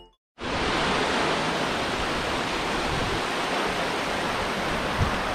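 A waterfall's steady rush of falling water, starting abruptly a moment in.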